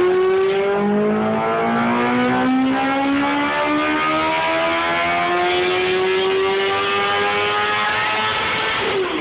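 A person imitating a motorbike with their voice: a long, continuous engine-like drone that climbs slowly in pitch, with a brief break a little over two seconds in.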